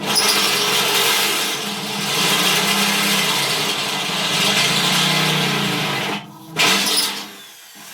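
Electric drill running under load, boring a headlight hole through painted metal, with a steady motor hum under the cutting noise. It stops about six seconds in, then runs again in one short burst.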